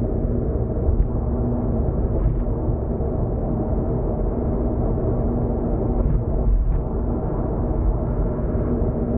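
Steady road and engine rumble of a car driving at expressway speed, heard inside the cabin, with a low hum. A few brief knocks come about a second in, a couple of seconds in, and twice around six to seven seconds in.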